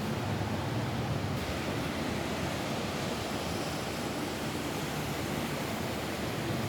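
Steady rain falling on a roof: a dense, even rush with no separate drops or gusts standing out.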